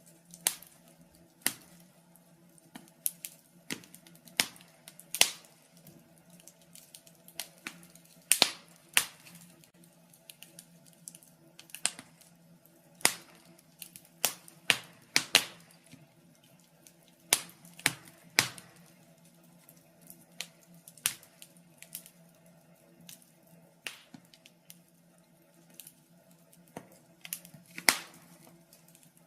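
Wood fire in a fireplace crackling, with irregular sharp pops from a fraction of a second to a couple of seconds apart over a faint steady low hum.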